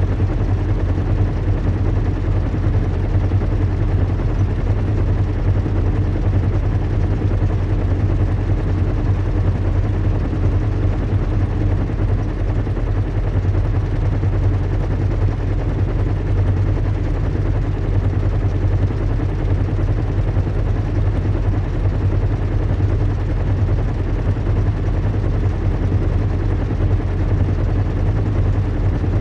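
Recreated airship ambience: the steady low rumble and hum of a large zeppelin in flight, with a hiss over it, unchanging throughout.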